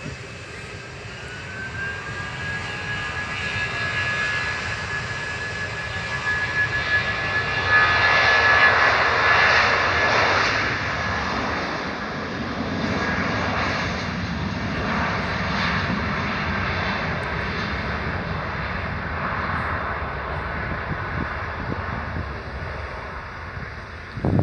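Aircraft engines running close by: a high whine rises in pitch over the first two seconds and then holds steady over a broad engine noise, which grows to its loudest about eight to ten seconds in and then eases off a little.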